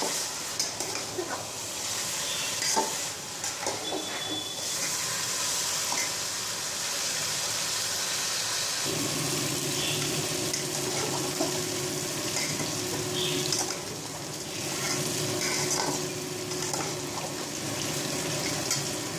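Chicken and potato pieces sizzling as they fry in mustard oil in a metal handi, with a spatula stirring through them and scraping and clicking against the pot. This is the masala being fried down uncovered at medium heat.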